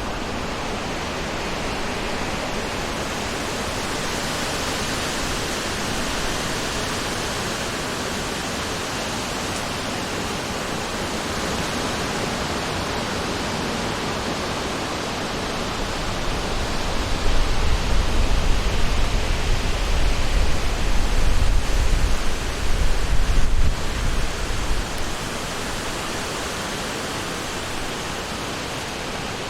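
Wind blowing through a summer forest: a steady, even hiss. A little past halfway it gusts stronger for several seconds with a deep rumble, then settles back.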